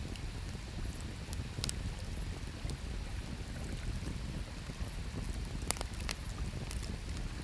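Wood campfire crackling with a few sharp pops, the loudest near the middle and two close together late on, over the steady low rush of flowing river water.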